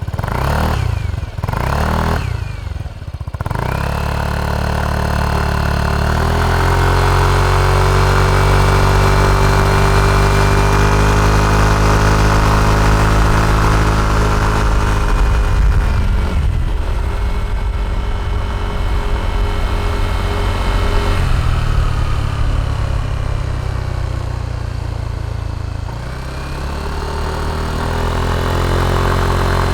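Yamaha NMAX scooter's single-cylinder four-stroke engine running through an aftermarket PRUNUS muffler: a few quick throttle blips, then the engine rises to a long steady high note. It drops off about halfway through, picks up again, dips, and rises once more near the end.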